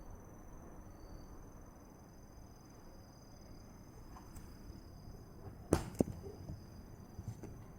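Insects chirping steadily at a high pitch, with two sharp clicks a third of a second apart about six seconds in and a few fainter ticks after.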